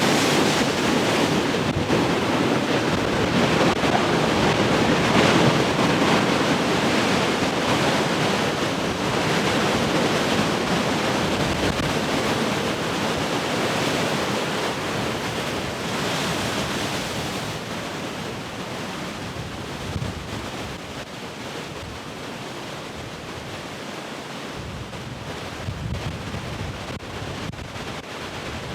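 Large ocean waves breaking and washing up as heavy surf, loudest through the first half and then easing off as the wash recedes. Wind buffets the microphone with a few low thumps in the second half.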